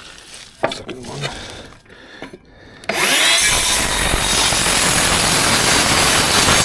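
A few light knocks of timber being handled, then about three seconds in a cordless circular saw spins up with a rising whine and cuts steadily through a wooden board, stopping abruptly near the end.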